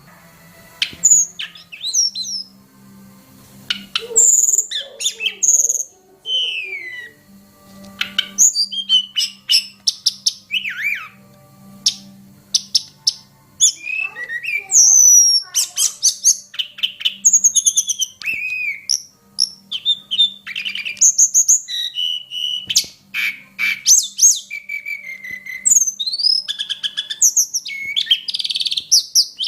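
Tledekan gunung singing a fast, varied song of chirps, whistles and slurred rising and falling notes, starting about a second in, with short pauses between bursts.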